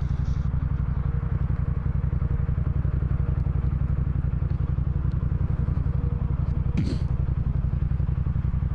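Motorcycle engine idling steadily, an even, fast low pulsing.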